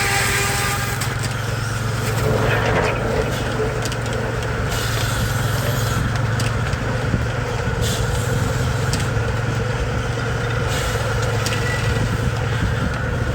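Baker 23-90 Uniflow steam traction engine running steadily, belted to a Frick circular sawmill, with a steady low hum. A brief rush of noise comes about two to three seconds in.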